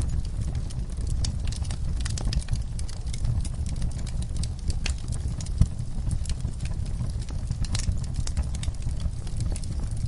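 Wood fire burning in a fireplace: a steady low rumble of flames under frequent, irregular crackles and pops of burning logs, with one sharper pop a little past halfway.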